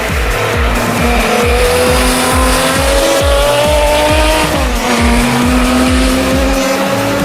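A racing engine's note climbs steadily through the revs, drops sharply at a gear change about four and a half seconds in, then climbs again, over background music with a steady thumping beat.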